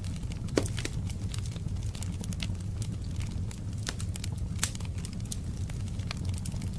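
Wood fire crackling in a fireplace: irregular sharp pops and snaps, the loudest about half a second in, over a steady low rumble.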